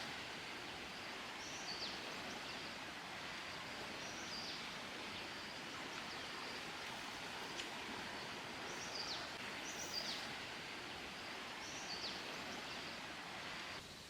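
Steady hiss of rain with a bird calling several times in short, high notes that fall in pitch. The hiss drops in level near the end.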